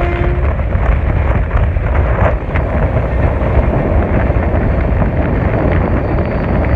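Shatabdi Express train running at speed, heard from on board: a steady low rumble of the wheels on the track with wind buffeting the microphone.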